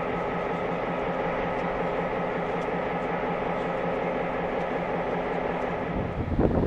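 Diesel locomotive idling with a steady, even hum of several held tones. Near the end a louder, rough low rumble cuts in.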